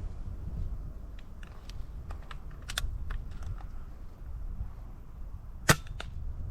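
Air rifle firing a single shot, a sharp crack about two-thirds of the way through, with a few faint clicks before it. Low wind rumble on the microphone underneath.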